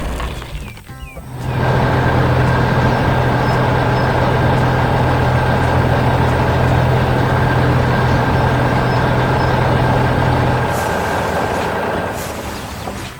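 Heavy construction vehicle's engine sound effect running steadily with a low hum and a hissing noise. It starts after a brief lull about a second and a half in and fades out near the end.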